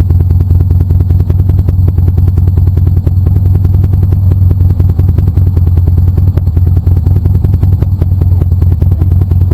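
Motorcycle engine running steadily under way, a loud, even low note made of rapid, regular firing pulses.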